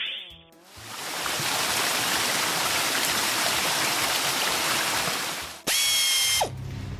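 Car-wash water spray sound effect: a steady rushing hiss lasting about five seconds. It is followed by a brief bright electronic tone that slides down in pitch as it cuts off.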